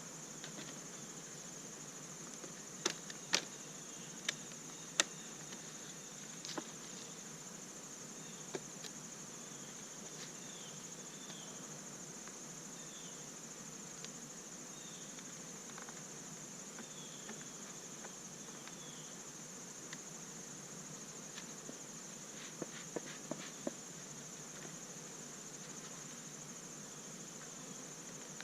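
Steady high-pitched trilling of crickets, with a few sharp clicks and knocks a few seconds in and again near the end.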